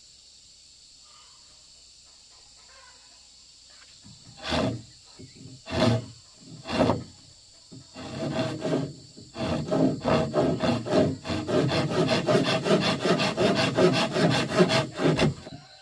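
Hand saw cutting: three slow, separate strokes, then a fast, steady run of back-and-forth strokes, several a second, that stops near the end.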